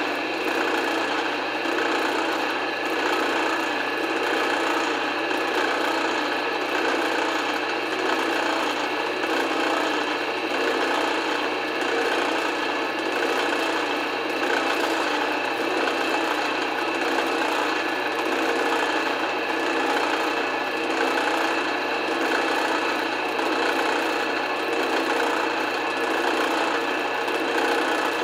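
Drill press running steadily with a screw spinning in its chuck, while its head is worked against to turn it down smaller, giving a continuous rubbing, scraping sound over the motor's hum.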